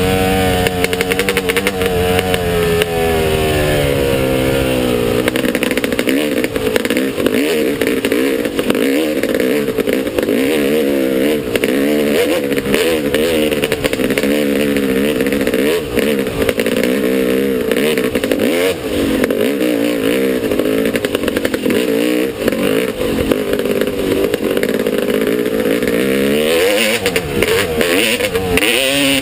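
Motocross bike engine revving up and down while being ridden, its pitch rising and falling over and over as the throttle opens and closes.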